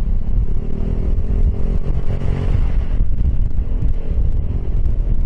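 Wind rumble on the microphone over the running Piaggio X10 scooter and road traffic, with a faint drone that rises and fades between about one and three seconds in.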